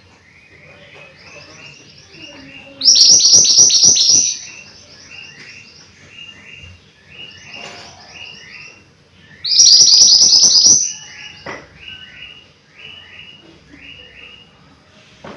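Mantenan gunung songbird singing: a steady series of short downward-slurred whistled notes, about two a second, broken twice by a loud, fast burst of high chattering notes lasting over a second.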